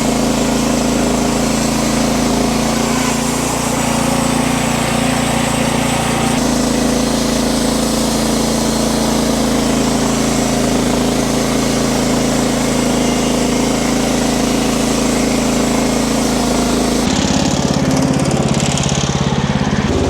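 Wood-Mizer LX50 Super portable bandsaw mill running steadily under load, its band blade cutting a board off a log with a constant hissing rasp over the engine. About seventeen seconds in the cutting noise falls away as the blade leaves the log, and the engine keeps running.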